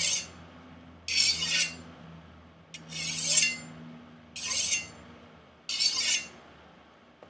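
Chinese chef's knife edge scraped across a portable diamond whetstone in about five separate strokes, each a short rasping scrape about a second and a half apart, as part of freehand sharpening.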